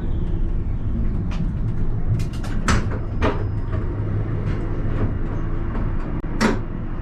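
Alstom Citadis tram heard from the driver's cab: a steady low running rumble with scattered sharp clicks and knocks, a cluster of them about two to three seconds in and a loud one near the end.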